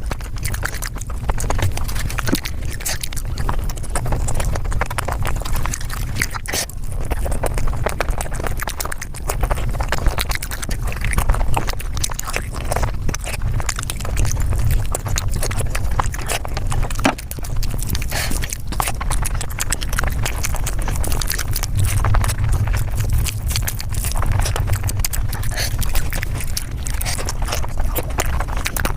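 Mukbang eating sounds sped up five times: a dense, rapid clatter of chewing, smacking and mouth clicks running together, over a steady low rumble.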